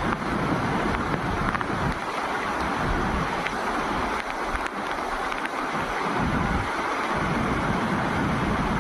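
Swollen monsoon river rushing past in a steady hiss of water, with wind buffeting the microphone in uneven low gusts.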